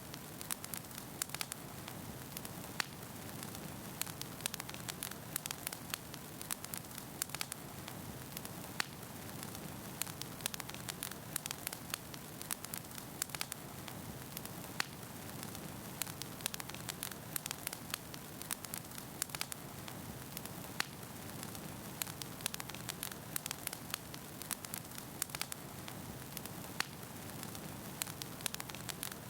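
Wood fire burning steadily in a fireplace, with a soft hiss under frequent sharp pops and crackles from the burning logs.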